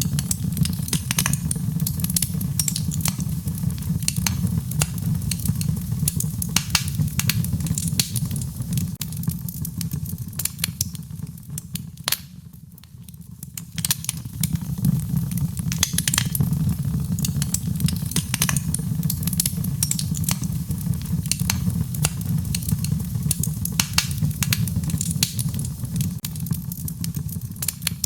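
Wood fire crackling: irregular sharp pops and snaps over a low, steady rumble, with a brief quieter lull about twelve seconds in.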